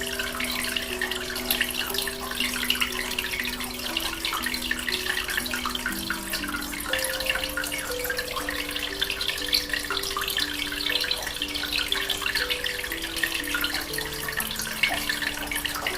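Water trickling and bubbling steadily in an aquarium, with soft background music of slow, held notes underneath.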